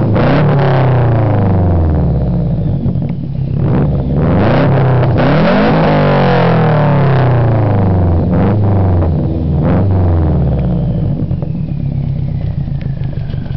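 2006 Subaru WRX's turbocharged flat-four revved through a catless, resonatorless Blitz Nur Spec R exhaust and Buschur Racing downpipe: three or four free revs, each climbing and then falling back, before the engine settles toward idle near the end.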